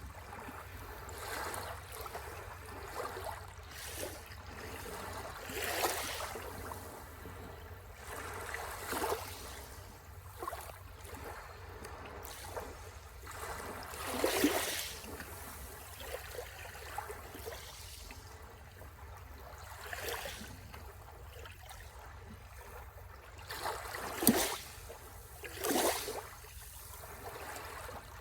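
Sea waves washing onto the shore: a steady wash of water with a wave surging and breaking every few seconds, the loudest one near the end.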